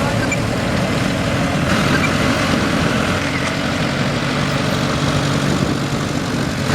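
Farm tractor engine running steadily with a low, even hum.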